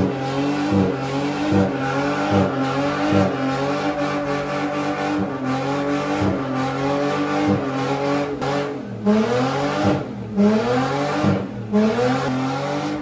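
A Mustang's engine held at high revs for a burnout, its pitch steady but broken by a short stutter a little more than once a second. Near the end the revs drop and climb again several times.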